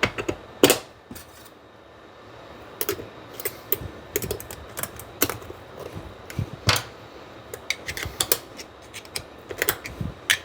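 Irregular light metallic clicks and clinks of transmission parts being handled and fitted while a high gear clutch drum is assembled, the sharpest click about half a second in.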